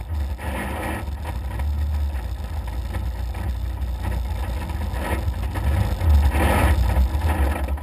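Rally buggy's engine running, heard from inside the cockpit: a steady heavy low rumble that grows louder about six seconds in.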